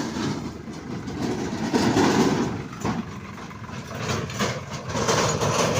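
Tractor engines running along with the rattle and clatter of tractor trolleys, louder and softer by turns.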